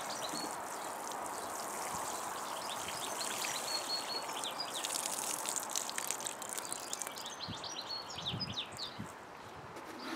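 Small songbirds chirping and calling over a steady rushing background noise.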